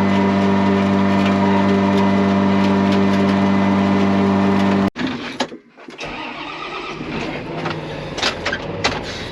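Grain dryer's blower fan running with a loud, steady hum that cuts off abruptly about five seconds in. It gives way to a quieter engine running, with a few knocks near the end.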